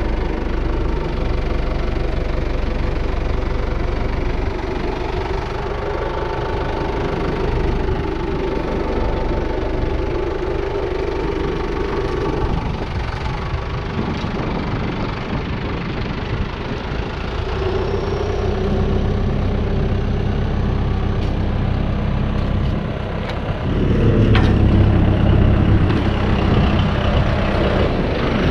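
An engine running steadily, louder and deeper for the last few seconds.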